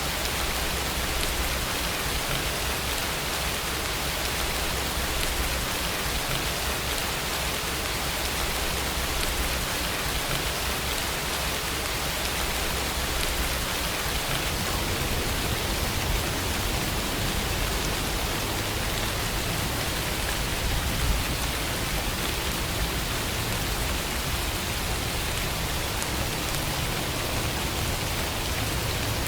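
Steady rainfall, an even hiss of rain without a break.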